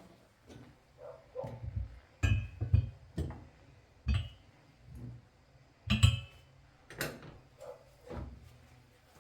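Kitchenware clinking and knocking as it is handled and set down: a dozen or so irregular knocks, a few with a short bright ring.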